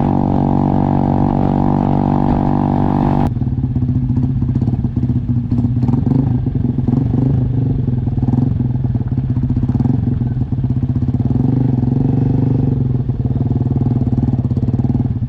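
Motorcycle engine running at a steady speed while riding, with rough wind and road noise. The sound changes abruptly about three seconds in, as at a cut between takes.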